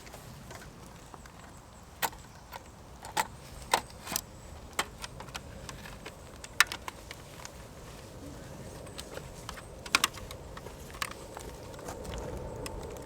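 Irregular sharp clicks and clinks of small hard objects, the loudest about six and ten seconds in.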